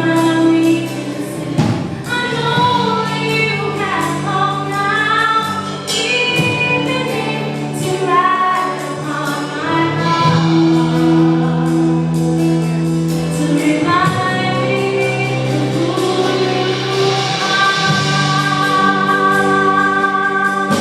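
Gospel-style singing with accompaniment: long held and wavering sung notes and vocal runs.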